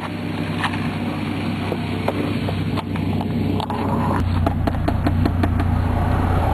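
Dodge Ram SRT-10's V10 running at idle through a Magnaflow exhaust with the rear catalytic converters deleted: a steady low rumble that grows louder about four seconds in. Scattered light clicks and knocks sound over it.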